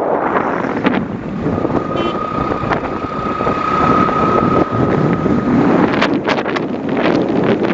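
Wind buffeting the microphone on a moving bike ride, a steady rushing noise, with a steady high whine for about four seconds in the middle and a few sharp knocks or rattles near the end.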